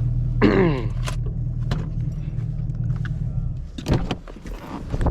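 2023 Chevrolet Camaro SS's 6.2-litre V8 idling steadily through a muffler-delete, secondary-cat-delete exhaust, then shut off about four seconds in. A couple of sharp clicks or knocks follow just after.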